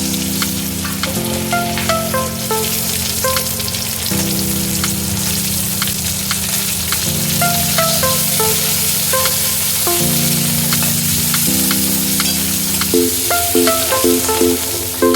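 Food sizzling as it fries in hot oil in a pan, with scattered clicks from stirring. Background music runs underneath: slow chord changes and a stepping melody, turning to quicker repeated notes near the end.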